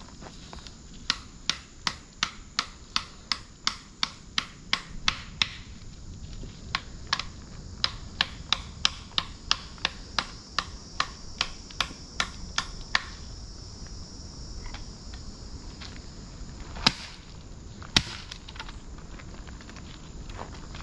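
A bicuda machete chopping into a log, with a fast, even run of sharp strokes at about two and a half a second for some twelve seconds. After a pause come two harder single blows.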